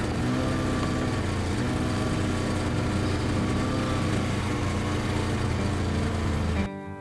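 A small petrol engine running steadily at a fairly even speed, cutting off suddenly near the end.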